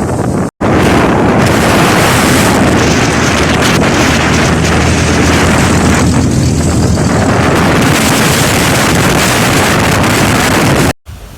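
Strong storm wind gusting and buffeting the microphone: loud, steady wind noise heavy in the low end. It drops out briefly about half a second in and cuts off near the end.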